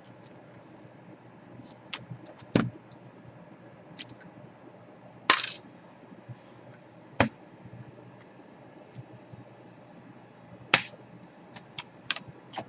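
Scattered sharp clicks and light metallic clinks, about half a dozen, the loudest about five seconds in: small screws and tools being handled and set down during laptop disassembly.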